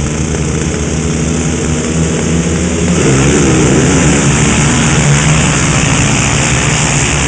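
A pack of motocross dirt bikes running together, several engines at once; about three seconds in their pitches start shifting and climbing as the riders rev.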